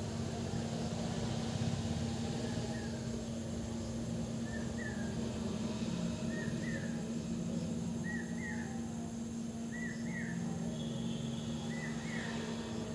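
A bird calling repeatedly, a short two-part chirp about every second and a half, over a steady low hum and rumble.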